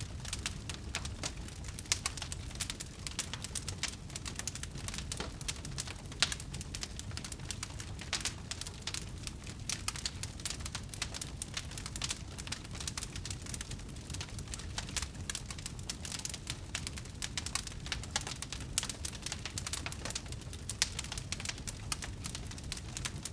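Wood fire crackling steadily: dense, irregular small crackles with a few louder pops, over a low, steady rumble of the flames.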